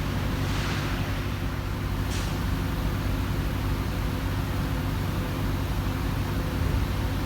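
Heavy truck's diesel engine idling steadily, with two short hisses of air about half a second and two seconds in.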